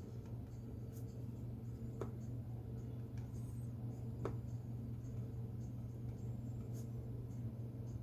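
Faint drawing strokes of a pencil on paper over a steady low hum, with a few light ticks and taps.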